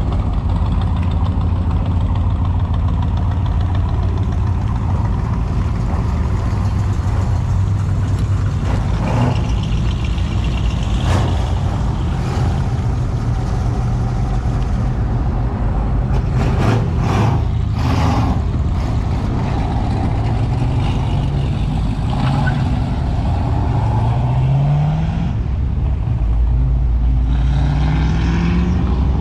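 Car engines running as show cars drive off. Twice in the second half, an engine revs up with a rising pitch.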